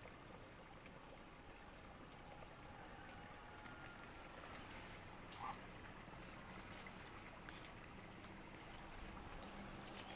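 Near silence: faint outdoor ambience, with one brief faint sound about five and a half seconds in.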